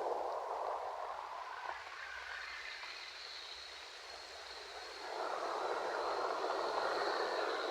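Ocean waves washing on a shore: the rush of surf ebbs away and swells up again about five seconds in.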